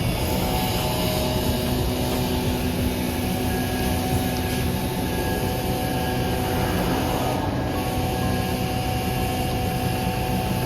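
Steady road and engine noise of a moving vehicle, with a constant rumble and hiss and no sudden events.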